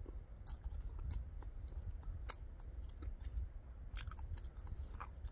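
A person chewing food close to the microphone, with irregular soft clicks and mouth smacks.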